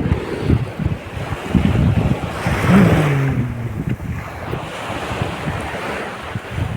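Wind buffeting the microphone in uneven low gusts over the wash of sea waves. A short sound falling in pitch comes about three seconds in.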